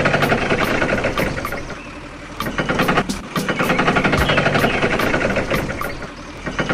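Diesel tractor engine running with a rapid, knocking pulse. It dips quieter briefly about two seconds in.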